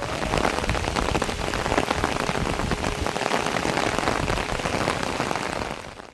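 Heavy rain falling, a dense steady patter of drops that cuts off suddenly near the end.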